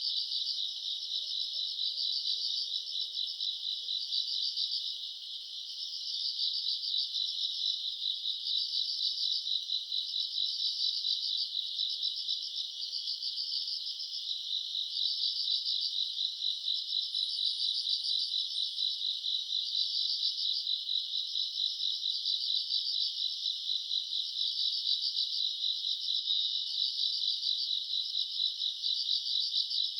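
A chorus of summer-night grass insects, such as crickets, trilling continuously at a high pitch. It swells in an even pulsing rhythm about every second and a half.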